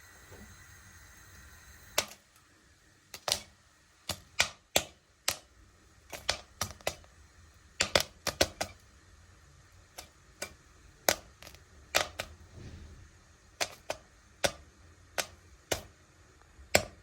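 A series of sharp, irregular clicks and taps, some coming in quick clusters of two or three, over a faint low hum.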